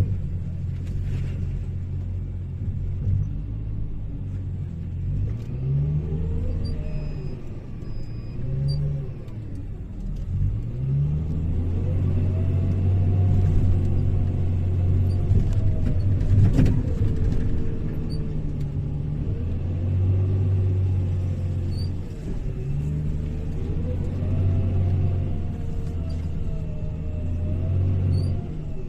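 Hyundai HL780-7A wheel loader's diesel engine revving up and falling back over and over as it works, several times, with one sharp knock about halfway through.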